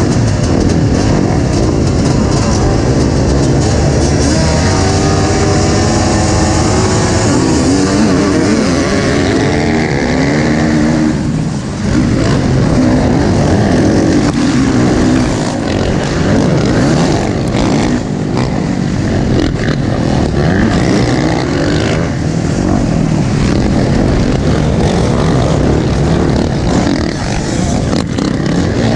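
Motocross dirt bike engines revving at race speed, rising and falling in pitch as riders go through the gears, with one bike's rising engine note standing out through the first part.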